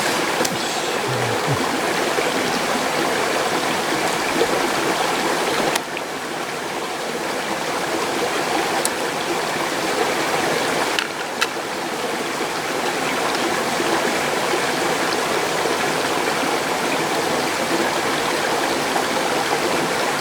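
Mountain stream rushing steadily over rocks, with a couple of brief faint clicks partway through.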